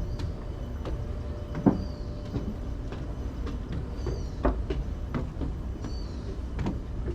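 Footsteps of someone walking, a thud every second or so, with a bird giving short, repeated chirps over a steady low rumble.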